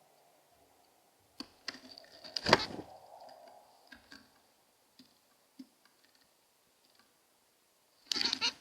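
Small birds' bills and feet tapping and clicking on a plastic Bird Buddy feeder, with a loud knock about two and a half seconds in and a quick run of taps near the end.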